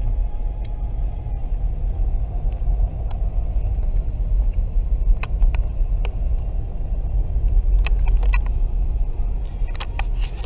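Steady low rumble of a car's tyres and engine heard from inside the cabin while driving on a snow-covered road, with scattered light clicks.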